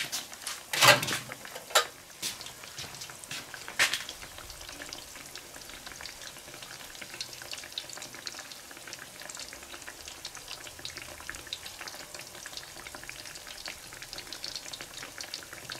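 Breaded bacon schnitzel frying in hot oil in a cast-iron skillet: a steady sizzle with dense fine crackling. A few louder sharp pops or knocks come in the first four seconds.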